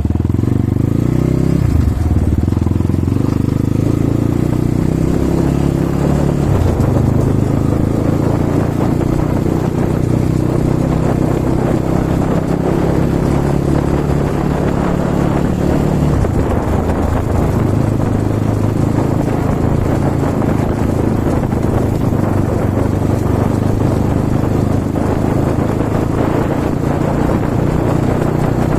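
Kovi Advance 300 enduro motorcycle being ridden, its engine running continuously under load with its pitch shifting as it speeds up and changes speed. The engine is being warmed up before an oil change.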